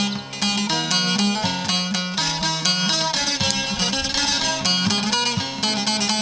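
Bağlama (saz) playing a fast run of plucked notes over a steady low drone.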